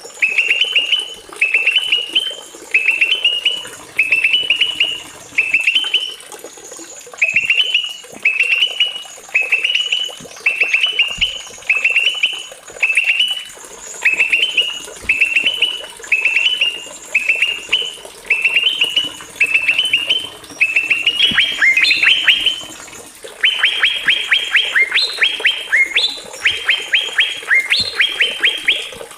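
Small songbird singing: a short phrase of quick rising notes, repeated about once a second. From about three-quarters of the way through it turns to faster, denser runs of sharp repeated notes.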